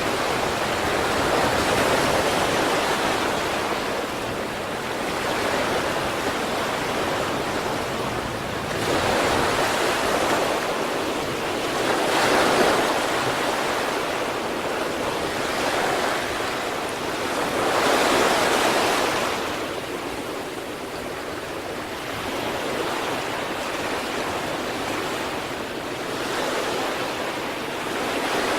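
Sea waves washing ashore in a continuous rush, swelling and falling back every few seconds, with the biggest surges about twelve and eighteen seconds in.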